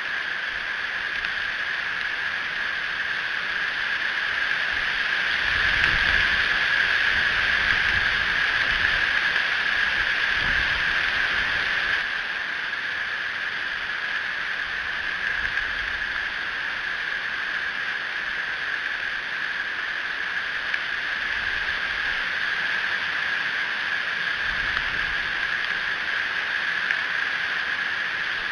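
Steady hiss of rain falling on and around the nest-cam microphone. About five seconds in it grows heavier for several seconds, over a low rumble of distant thunder, then eases back.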